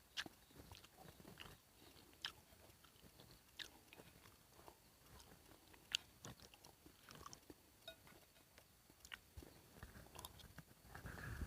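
A person eating: faint chewing with scattered small clicks and crunches, and a louder rustle near the end.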